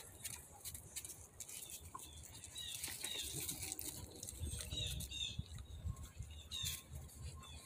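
Faint, short high-pitched bird chirps repeating over several seconds, over low rustling and handling noise.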